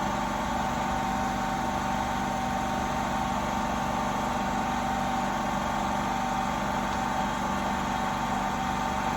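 Steady mechanical hum with a few constant tones, unchanging throughout.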